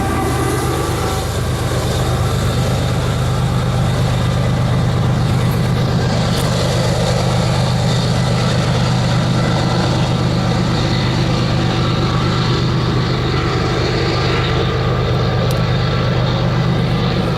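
Empty Norfolk Southern coal train rolling past: a steady rumble of wheels on rail with a strong low hum underneath.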